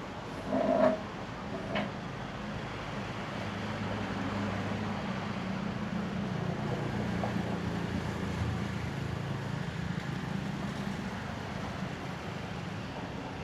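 Outdoor ambience with an engine's low steady hum that swells over several seconds and then slowly fades, as a vehicle passes, over a constant background rush. A short loud sound, a brief tone, comes about half a second in, with a smaller one just after.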